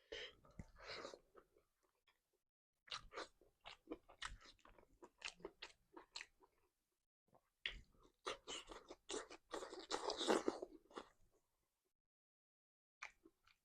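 Close-miked eating: irregular crunching, chewing and mouth smacks, with a denser stretch of crunching about ten seconds in, then a short pause and two last smacks near the end.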